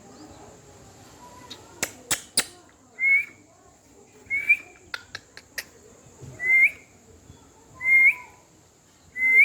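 Indian ringneck parrot whistling: five short upward-sliding whistles, one about every second and a half, with a few sharp clicks before and between them.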